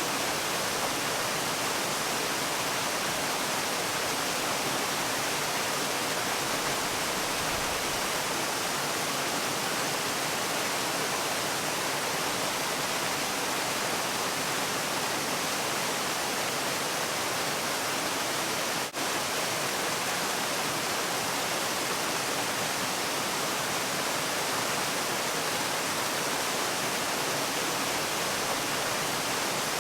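Waterfall: a steady rush of falling water with an even hiss. There is one very brief dip in the sound about two-thirds of the way through.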